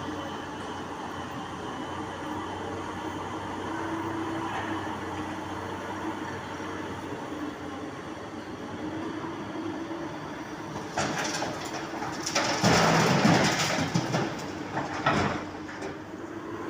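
Komatsu PC200 hydraulic excavator working, its engine a steady hum with a faint held tone. About two-thirds of the way in a loud rush of noise lasts several seconds, with a shorter burst shortly after.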